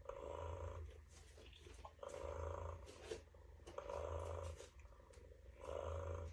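Pets Alive Smitten Kittens robotic toy kitten playing a recorded purr through its small speaker, four short purrs about two seconds apart. This is the sound that signals the kitten wants its milk bottle.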